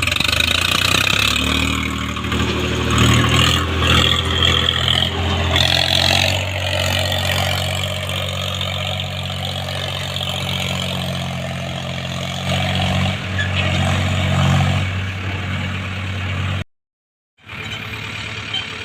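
Heavy diesel engine running with a steady low drone, its revs rising and falling in the first few seconds. Near the end the sound cuts out completely for under a second, then an engine is heard again.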